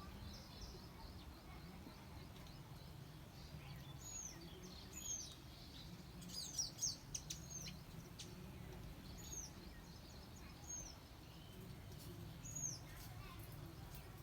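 Faint, short, high chirps from small birds, repeated several times, each sweeping downward, over a steady low background rumble.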